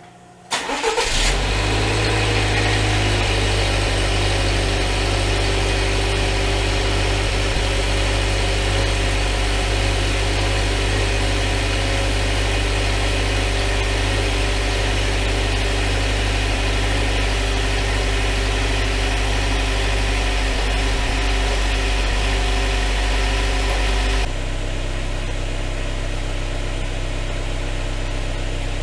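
Subaru Levorg 1.6 L turbocharged flat-four starting about a second in and settling straight into a steady idle through its exhaust. About 24 s in the sound drops abruptly to a slightly quieter, lower idle.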